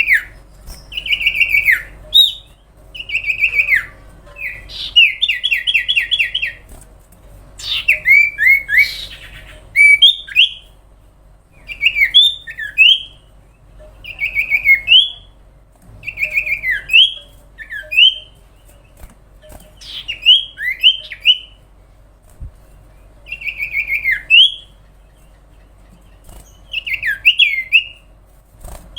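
Common iora (cipow) singing: loud, short phrases of sliding, whistled notes, repeated about every two seconds, with a quick run of evenly repeated notes about five seconds in and a harsher, rasping note around eight seconds in.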